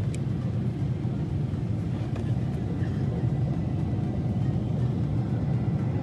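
Steady low rumble of cabin noise inside a Boeing 777-300ER airliner, engine and airflow noise during the descent towards landing.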